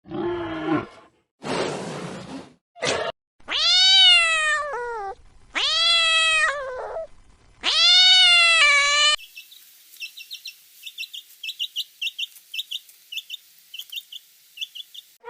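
A few short, rough animal calls, then a cat meowing three times: long, loud, drawn-out meows that rise and then fall in pitch. About nine seconds in the sound cuts to a run of rapid, high, irregular chirps.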